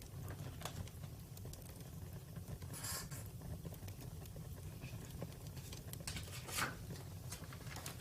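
Campfire crackling: scattered snaps and pops over a low, steady rumble, with louder snaps about three seconds in and again around six and a half seconds.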